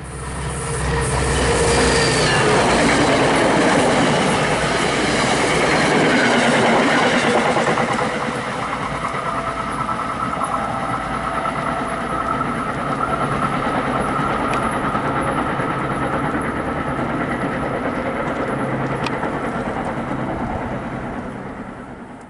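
NJ Transit commuter train, cab car leading, running close past with loud rumbling wheel noise and clacking over the rails. A steady high-pitched squeal from the wheels comes in about nine seconds in and holds until shortly before the end.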